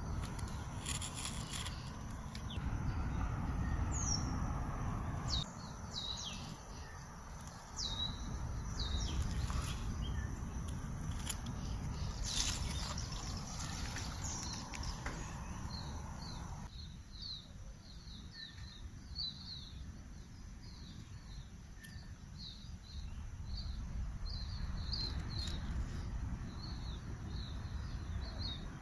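Wild birds calling: scattered short sweeping chirps, then from about halfway a quick run of short repeated chirps, several a second, over a steady low rumble of outdoor background noise.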